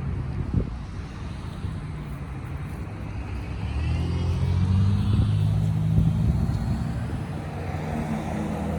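A motor vehicle drives past close by. Its engine hum builds from about three seconds in, is loudest a couple of seconds later, then eases off.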